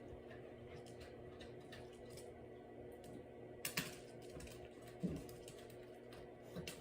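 Refrigerator door water dispenser running slowly into a bowl, a low steady hum, with a sharp click about halfway through and a softer knock a second later.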